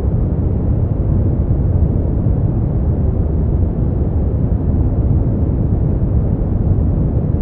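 Brown noise: a steady, even, deep rumbling hiss weighted toward the low end, with no changes or events.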